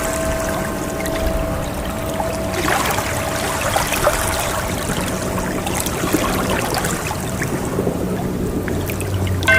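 Water sloshing and trickling steadily, with a struck bell's ringing tone dying away over the first few seconds and a fresh strike near the end.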